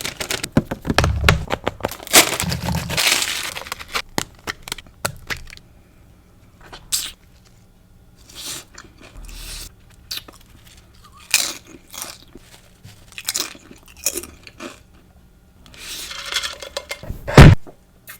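Close-up eating sounds of a Jersey Mike's Sub in a Tub, the sub's fillings served in a bowl without bread: crunchy bites and chewing. The crunching is dense at first, then comes in scattered bursts with quiet gaps. There is one loud knock near the end.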